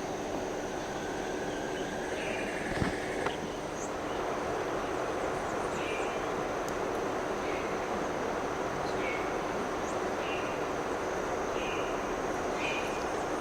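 Forest ambience: a bird giving a short call again and again, about every second and a half through the second half, over a steady rushing noise and a thin high whine.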